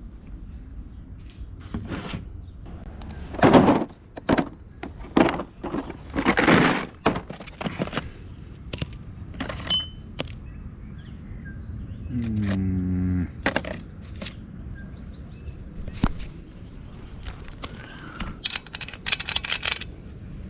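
Tools clinking and knocking on metal while a motorbike is worked on for an oil change, with a brief hum about two-thirds of the way through.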